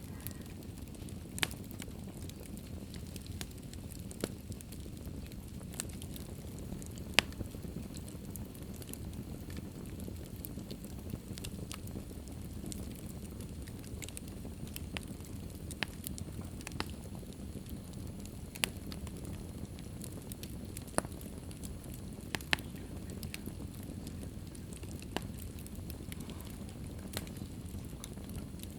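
Wood fire burning in a fireplace: a steady low hiss and rumble of the flames with sharp, irregular crackles and pops every second or two.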